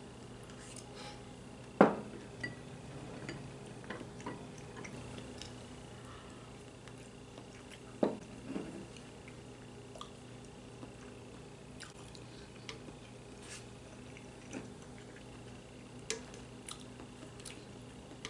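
Chopsticks clicking and clinking against a bowl of stew while eating, with sharper knocks about two, eight and sixteen seconds in. A faint steady hum runs underneath.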